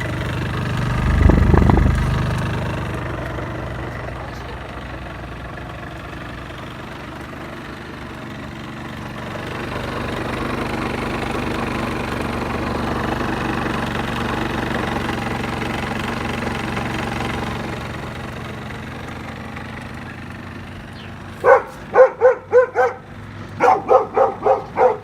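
Honda Dio AF34 scooter's small two-stroke engine running at low revs, with a short burst of throttle about a second in and a gentle rise in revs for several seconds midway before it settles back. Near the end, about ten short, sharp calls come in two quick runs over the engine.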